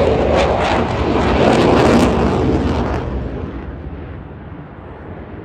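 Eurofighter Typhoon's twin EJ200 jet engines, a loud crackling roar for about three seconds that then fades away.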